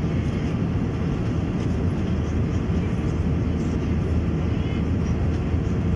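Steady cabin noise inside an Airbus A321-200, the engines and airflow making an even, low drone that does not change.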